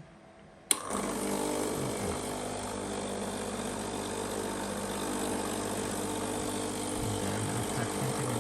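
Breville BES990 espresso machine's pump kicking in abruptly just under a second in and running steadily, a hum with a hiss of water flowing, as it pushes water through during the descaling cycle.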